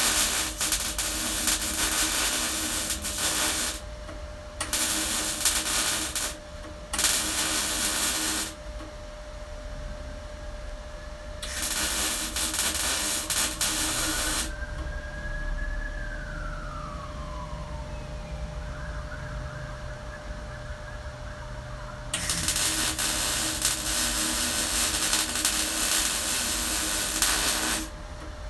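MIG welder laying weld on a steel car body panel in five bursts of crackling hiss, each a few seconds long, with short pauses between them. A faint tone slides down in pitch during the longer pause in the middle.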